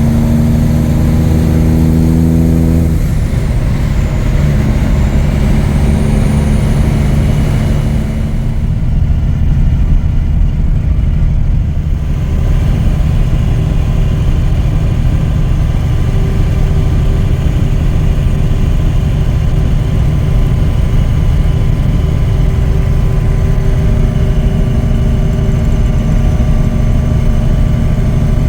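Peterbilt 359 truck's Cummins diesel engine running while driving without a trailer. Its note changes about three seconds in, then it pulls steadily.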